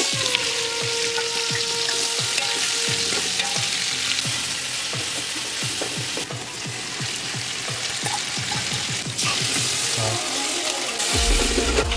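Sliced onions sizzling and spattering in hot oil in a large metal pot, with a ladle stirring through them. The result is a steady frying hiss broken by many small pops and clicks.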